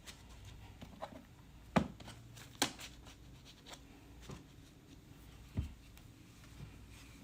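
A clay slab being rolled out by hand, quiet between a few sharp knocks about two, three and six seconds in.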